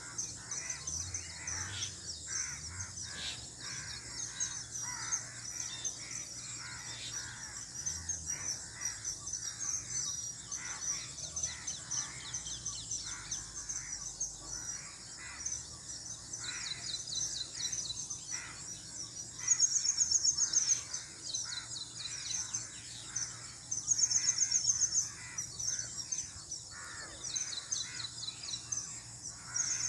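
Outdoor birdsong: many birds chirping and trilling with some cawing calls, over a steady high hiss. Twice, about two-thirds of the way through, a bird gives a louder run of rapid high notes.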